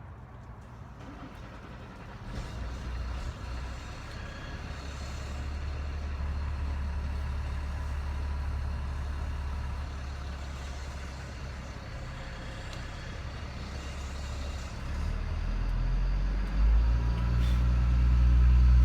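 Motor vehicle engine running, a low steady hum that grows louder about fifteen seconds in.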